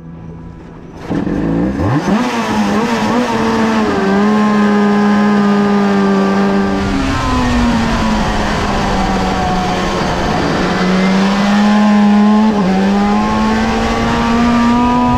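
Suter MMX 500's 576cc fuel-injected V4 two-stroke engine, heard from an onboard camera while the bike runs on track. It comes in about a second in and rises in pitch, then holds a fairly steady note that sags and climbs gently, with a brief dip near the end.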